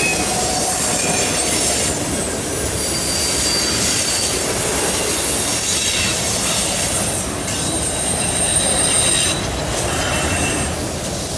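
Loaded freight cars rolling past on a curve: a steady rumble of steel wheels on rail, with thin high-pitched wheel squeals from the curve that come and go several times.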